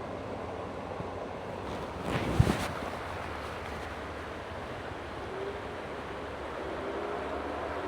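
Steady rushing of flowing creek water. A brief loud bump, like a gust or a knock on the microphone, about two seconds in.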